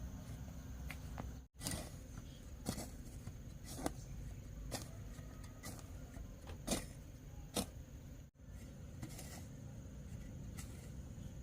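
A series of short, sharp knocks or taps, roughly one a second, over a steady low background hum.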